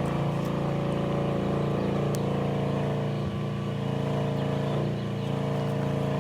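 Steady low droning hum of an idling engine, even throughout.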